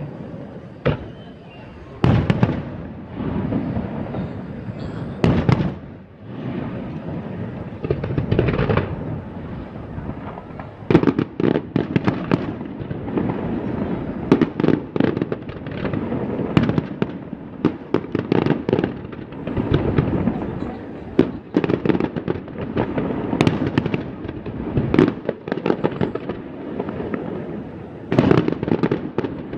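Fireworks display: aerial shells bursting one after another in sharp bangs and crackles, with rumbling booms between them, coming thickest through the middle.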